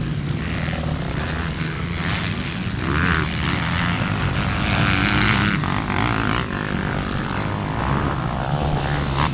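A steady engine drone: a low hum under a constant rushing noise, swelling a little in the middle.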